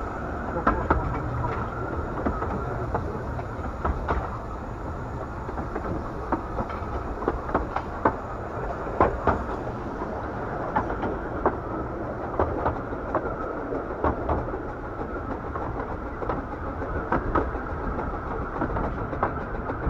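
Miniature railway train running along the track, heard from aboard a carriage: a steady rumble of wheels on rail with frequent sharp, irregular clicks and knocks.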